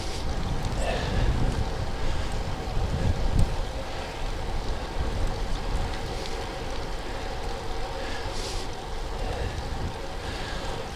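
Wind buffeting the microphone of a camera on a moving road bicycle, a steady low rush of air with road noise underneath.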